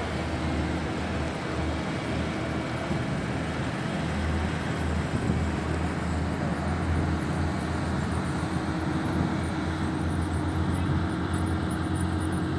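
Heavy diesel road-construction machinery running steadily: a continuous low engine drone with a steady hum above it.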